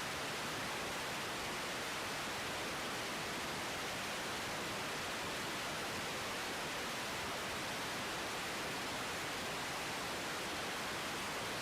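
Steady hiss of an air traffic control radio feed between transmissions, even and unchanging.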